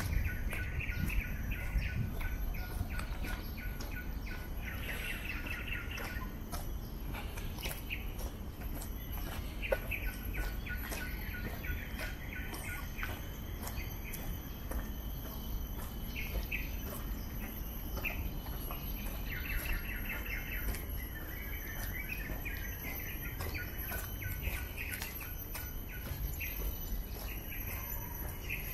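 Birds chirping and singing in repeated bursts of quick notes, over a low steady rumble.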